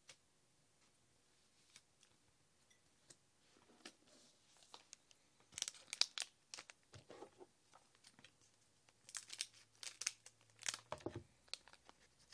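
Foil booster pack of trading cards being torn open and its wrapper crinkled, in short bursts of rustling and tearing with faint clicks of handling in between.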